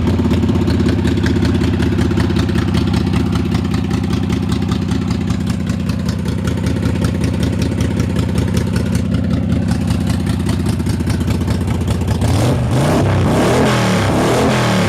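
Harley-Davidson Sportster 883 V-twin running through aftermarket Hooker pipes, idling with an even, loping beat just after being started, then revved up and down a few times near the end. It sounds mean.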